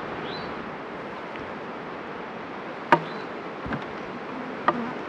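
Honeybees buzzing in a steady drone around an open hive, with two sharp knocks about three seconds in and near the end.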